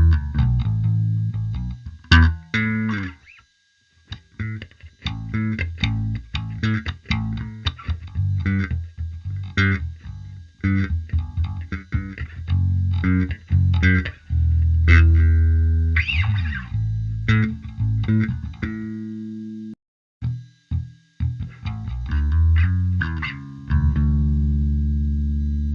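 Electric bass played through an optical compressor pedal, a clone of the EarthQuaker Devices The Warden: a line of sharply attacked plucked notes with even, held sustain. There is a short break about twenty seconds in, and a final low note is left ringing.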